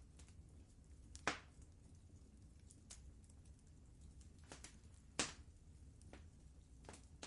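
Wood fire in a fireplace crackling faintly: scattered small ticks, with two louder pops about a second in and a little past five seconds, over a low steady rumble.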